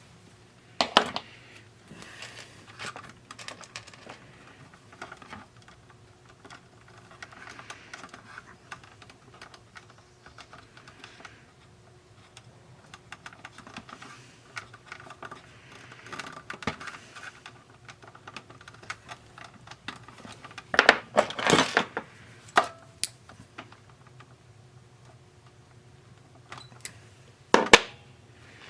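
Irregular small clicks and taps of tools and small parts being handled on a workbench, with a few louder clacks about a second in, around two-thirds of the way through and near the end, over a faint steady hum.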